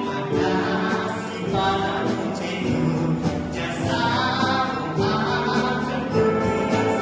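Wind orchestra playing a slow song, with singing over the band.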